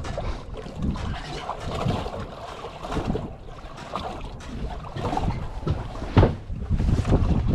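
Outdoor noise on a boat on open water: wind buffeting the microphone and water moving against the hull, uneven and gusty. A sharp knock about six seconds in.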